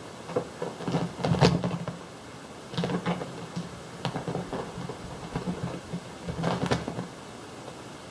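A cat's paws scampering and pouncing on the floor while it chases a laser dot: three bunches of quick patters and thumps, over a steady hiss.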